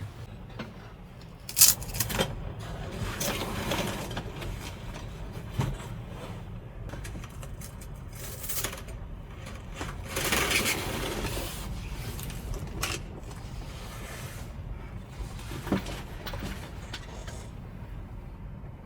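Storm wind and rain buffeting a small truck camper: a steady low rumble with gusty noisy surges and a few sharp knocks, the loudest about a second and a half in.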